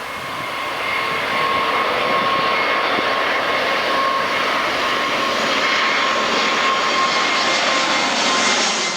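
Airliner's jet engines running loud and close, a steady rushing noise with a high whine in it, swelling over the first second and then holding.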